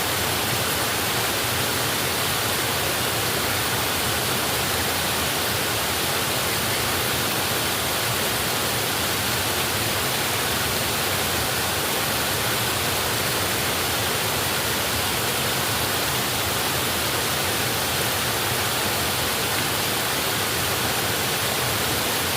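A waterfall rushing steadily: a constant, even roar of falling water with no change.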